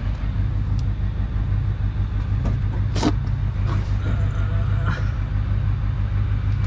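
Truck engine idling steadily, with a few sharp clicks and knocks over it, the loudest about three seconds in.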